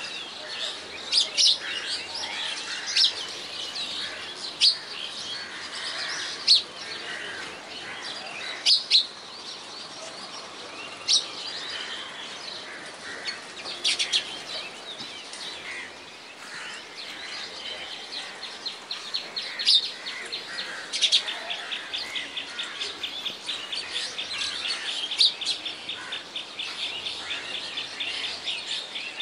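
Birds chirping outdoors, many short, sharp high calls scattered throughout. About two-thirds of the way in, a fast, even high trill joins and keeps going.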